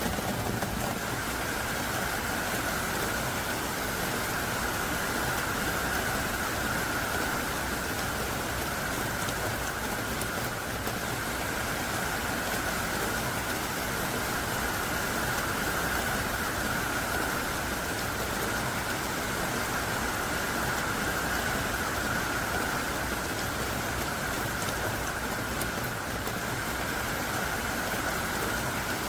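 Heavy downpour falling steadily, a dense, even hiss of rain with no let-up.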